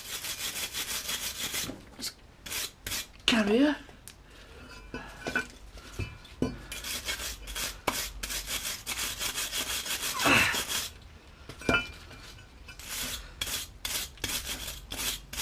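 Metal brake caliper carrier being scrubbed clean by hand: quick back-and-forth rasping strokes in several bursts with short pauses.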